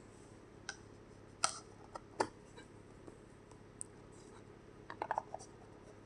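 Scattered light clicks and taps over a faint steady hum, with a quick run of clicks about five seconds in: small handling noises in a quiet workshop.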